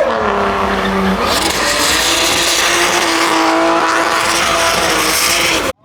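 Car engine running at high revs with tyre squeal and skidding, as from a drifting car. The sound cuts off abruptly near the end.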